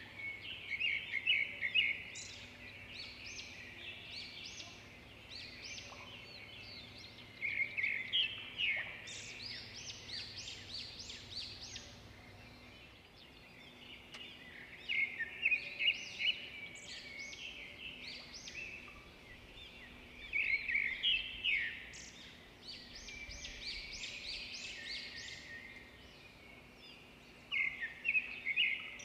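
Bird calls: bursts of quick, high chirping notes that come in clusters about every six or seven seconds, over a faint steady hum.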